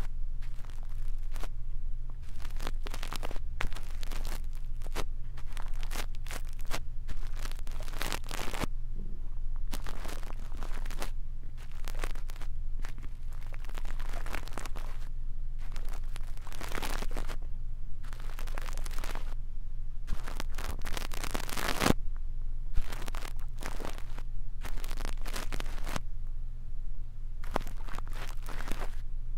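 Brush ear-cleaning ASMR: brush bristles scratching and rustling right against the microphone in a steady run of irregular strokes, with one sharper click about two-thirds of the way through, over a constant low hum.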